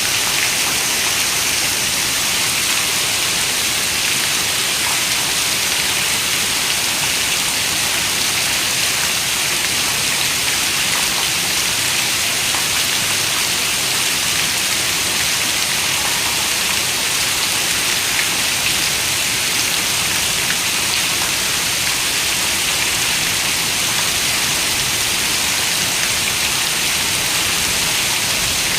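Steady rain falling, an even hiss with scattered droplet ticks that keeps the same level throughout.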